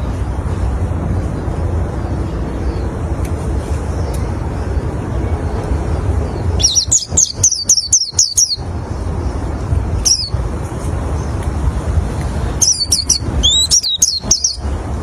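White-eye (pleci) singing. A rapid run of high, quick chirping notes comes about halfway through, then a single short note, then a second run near the end, over a steady low rumble.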